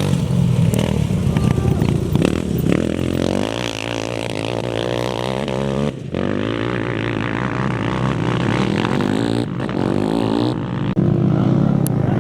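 Off-road racing engines running hard and revving, their pitch rising and falling as the vehicles pass. The sound breaks off abruptly about halfway through and again near the end, where the footage jumps.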